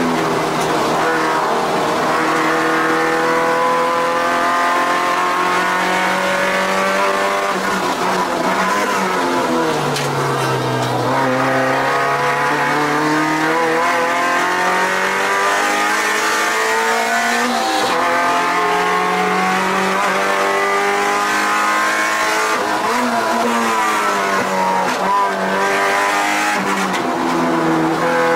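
Mazda MX-5 NC's swapped 2.5-litre four-cylinder engine, heard from inside the cabin at racing pace. It revs up and falls back repeatedly through gear changes and braking for corners, and it is at its lowest pitch about ten seconds in before pulling up again.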